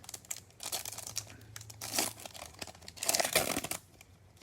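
A foil wrapper of a Bowman baseball card pack being torn open and crinkled, in three separate bursts of rustling.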